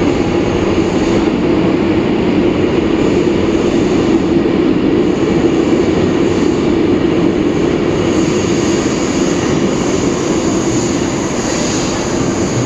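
Caracas Metro Line 1 train pulling out of the station and running on: a loud, steady rumble with a low hum through it.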